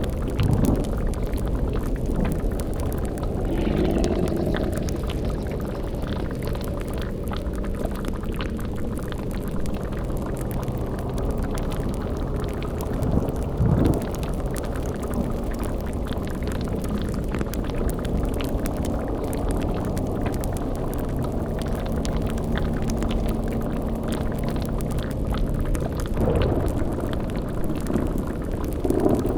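Layered spooky sound-effect ambience: a steady low eerie drone under constant bubbling, like a boiling cauldron, with a few short swelling gurgling sounds rising out of it.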